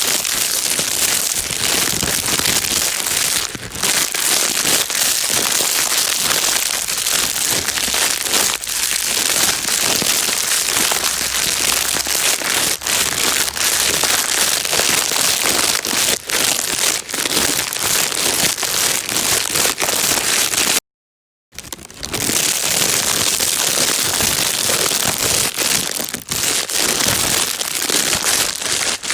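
Plastic bag being crinkled and rustled continuously, a dense crackle used as white noise to soothe a crying baby. It drops out completely for under a second about two-thirds of the way through, then resumes.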